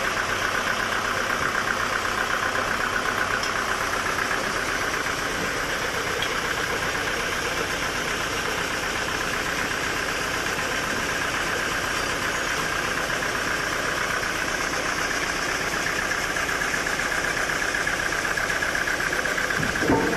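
Sawmill machinery running steadily, a fast even mechanical drone from an engine-driven saw, with one brief knock near the end.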